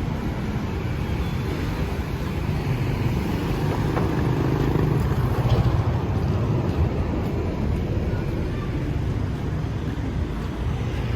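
Steady city street traffic: vehicles passing with a continuous hum of engines and road noise.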